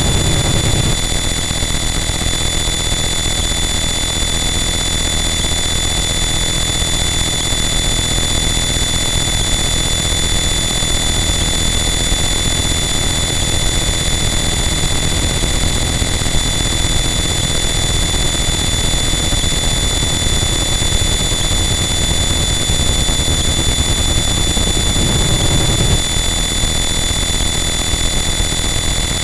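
Harsh noise wall: a dense, unchanging wall of loud distorted noise with steady high-pitched whines over a rumbling low end, and a brief low swell about 25 seconds in.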